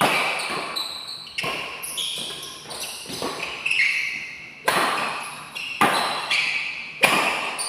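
Badminton rally: rackets striking the shuttlecock in a fast exchange, about ten sharp hits echoing in a large hall, with short high squeaks between them.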